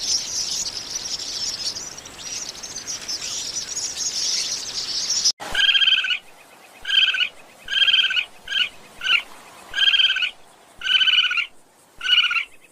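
Animal calls: a dense, high chirping chorus, then, after a sudden cut about five seconds in, a run of about nine short repeated calls.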